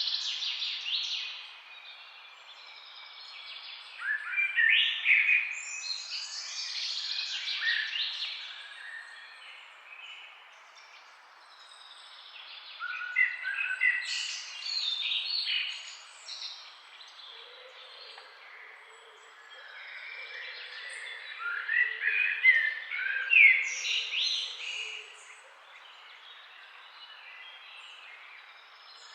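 Songbirds chirping and singing in bouts of a few seconds, about four bursts of quick high chirps and short whistled glides, with quieter gaps between them over a faint steady background hiss.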